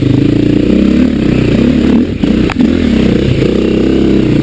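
Dirt bike engine working on a rough, rocky climb, revving up and down as the throttle is worked. The revs drop briefly about two seconds in, and a sharp knock follows.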